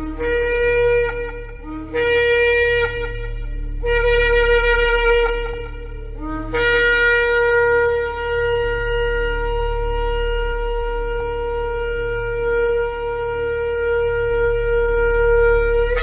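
Shofar sounded in three short blasts followed by one long, steady held blast that cuts off near the end, over a low steady hum.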